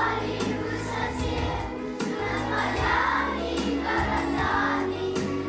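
Children's school choir singing in unison over sustained low bass notes that change about every two seconds.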